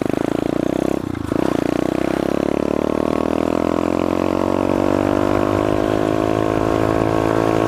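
SSR 125 pit bike's single-cylinder four-stroke engine under way, with a short dip in its note about a second in, then its pitch climbing slowly and steadily as the bike accelerates.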